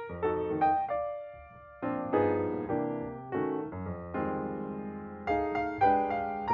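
Background piano music: chords and melody notes struck and left to fade, with a short lull about a second in.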